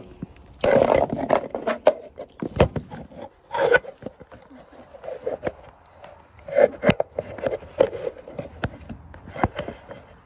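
Handling noise as a phone is moved and propped up: scrapes and rustles with several sharp knocks scattered through.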